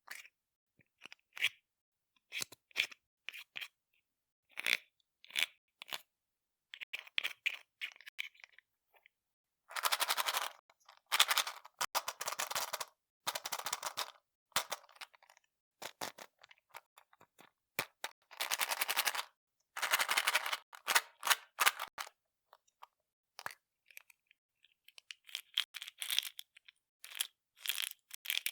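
Candy wrappers crinkling and crackling as they are handled and unwrapped. Scattered crisp clicks give way to dense crackling bursts about a second long, which thin out again near the end.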